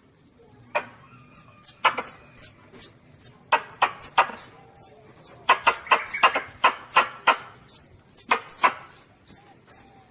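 Young Asian palm civet calling: a rapid series of short, high squeaks, each falling in pitch, about three a second, mixed with harsher squealing cries. A recorded lure call that hunters play to draw civets in.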